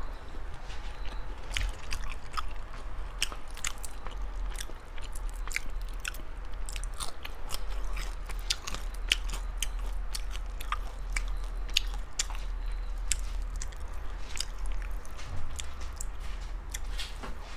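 Close-miked eating: biting and chewing spicy braised shrimp, with many short, crisp clicks and crunches scattered irregularly throughout, over a low steady hum.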